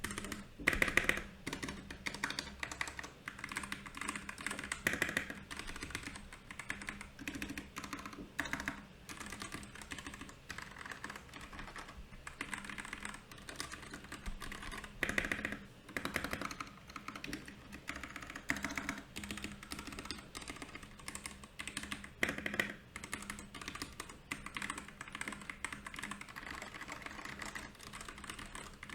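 Royal Kludge RK68 mechanical keyboard being typed on steadily: a continuous run of key clacks, with a few louder strikes now and then.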